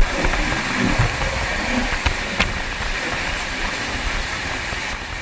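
Passenger train running along the track: a steady rumble and rushing noise, with a couple of sharp clicks about two seconds in.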